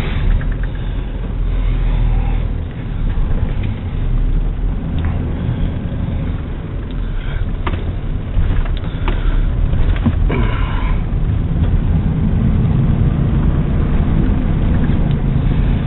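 Pickup truck's engine and road noise heard inside the cab as it drives off, a steady low rumble with a few light clicks.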